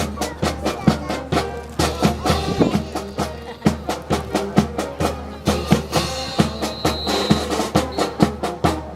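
Brass band playing a march over a steady snare and bass drum beat; the music stops near the end.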